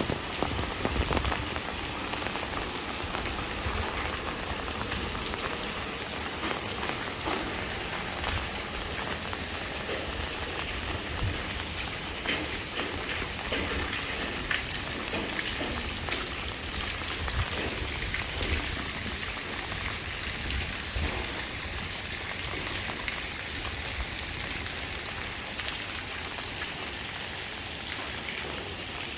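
Heavy rain falling steadily, with many separate drops striking surfaces over an even hiss.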